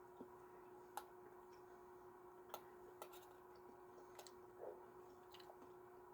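Near silence: a faint steady hum with a handful of faint, irregular clicks from eating out of a plastic bowl.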